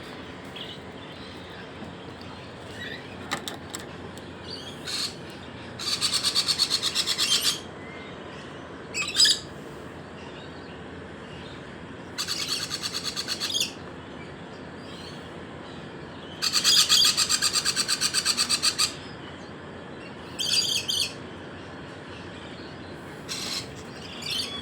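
A pet bird calling in agitated bursts of rapid chattering notes, a tantrum: three long runs of a second or two each, with shorter calls in between.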